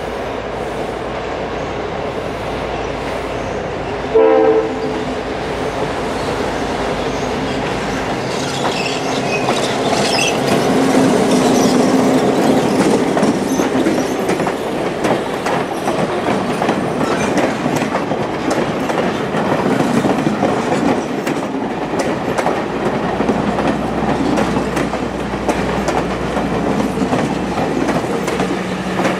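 Passenger train passing close by on a curve. About four seconds in, the locomotive's horn gives one short blast. After that the train rolls past with rumbling, some brief high wheel squeals, and a run of wheel clicks over the rail joints.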